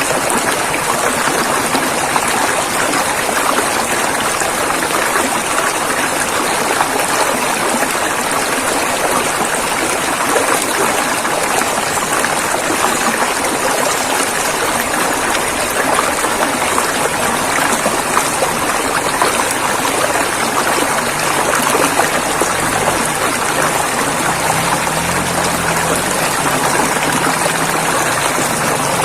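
Rushing river water running steadily. A low hum comes in over the last few seconds.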